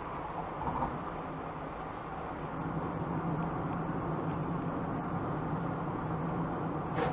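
Steady road noise of a car driving, with a low engine hum that grows slightly louder, and a sharp click near the end.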